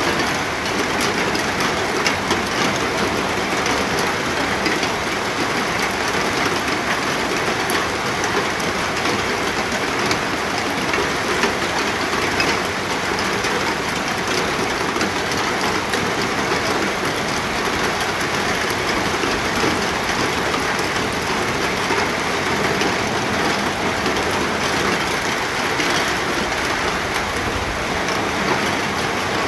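Steady rain falling, a dense even hiss with many fine patters of drops hitting a surface.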